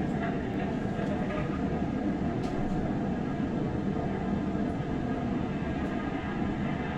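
Strong hurricane wind blowing in a steady, dense rush.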